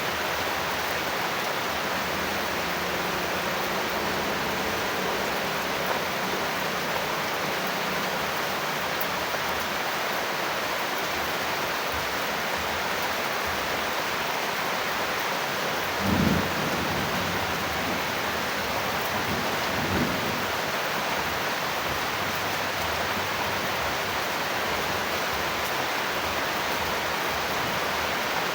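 Steady, even rain hiss. Two brief low rumbles break through, the first about halfway through and a shorter one about four seconds later.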